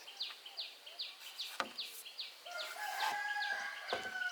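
Chickens: a chick peeping over and over, two or three short falling peeps a second. A rooster crows through the second half. Two sharp knocks come, one about halfway through and one near the end.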